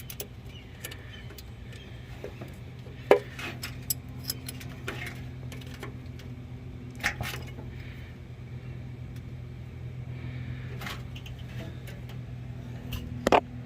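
Wrench or socket clinking and tapping against metal while being worked onto a small nut on a starter. There are sharp clinks about three seconds in, about seven seconds in and near the end, over a steady low hum.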